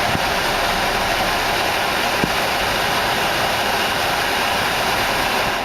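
Hummer H2's climate-control blower running at high speed, a steady rush of air from the dash vents. It comes on abruptly and drops away sharply near the end.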